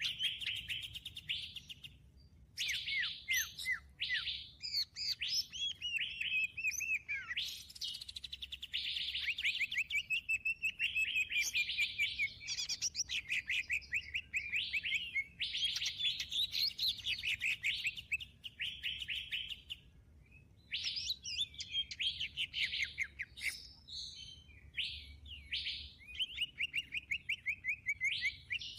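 Small songbirds calling in fast chattering trills and chirps, broken by two short pauses.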